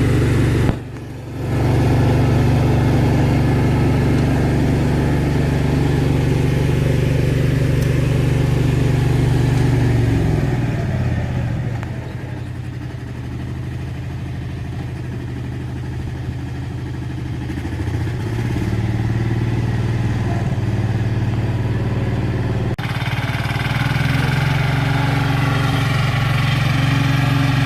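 Valpadana 4RM 180 mini tractor's diesel engine running steadily, with a short break in the sound about a second in. Partway through its speed drops, holds lower for several seconds, then picks back up to its earlier pitch.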